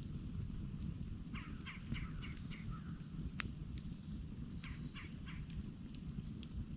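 Campfire crackling with sharp pops over a steady low rumble. A bird calls twice in quick runs of short notes, about six notes a second and a half in and about four more near the end.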